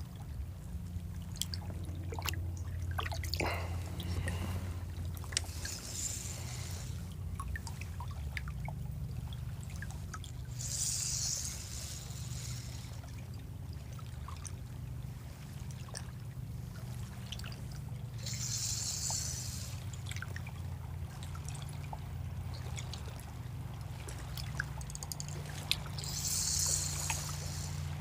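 Water trickling and splashing around a kayak, with soft washes that come every several seconds, over a steady low hum and a few small clicks.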